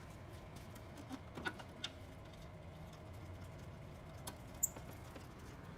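A few faint, sharp clicks and taps, scattered and irregular, from screws being fitted by hand into a plastic car bumper.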